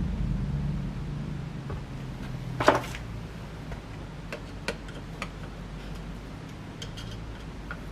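Small metal clicks and clinks of screws and fan hardware being handled, with one louder clatter about a third of the way in and a few light ticks after it, over a low steady hum that fades in the first seconds.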